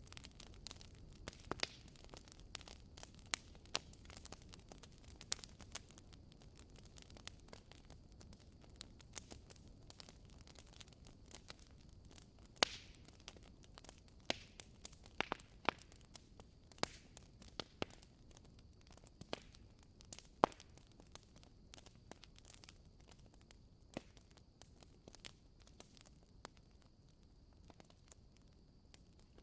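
Wood fire crackling in a fireplace: irregular sharp pops and snaps from the burning logs over a faint low rush, with a few louder pops around the middle.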